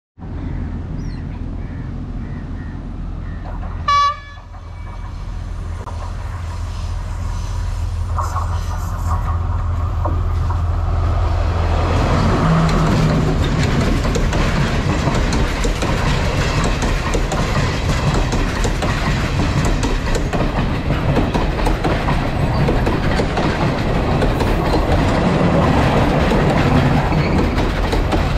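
Sri Lanka Railways Class S10 diesel multiple unit approaching with a steady low engine drone. About four seconds in it sounds one short horn blast. From about twelve seconds on the train runs close past with a loud, steady rumble and clatter of wheels on the rails.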